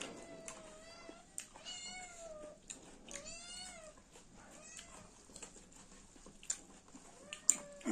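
A cat meowing repeatedly, several drawn-out calls, with short sharp clicks in between.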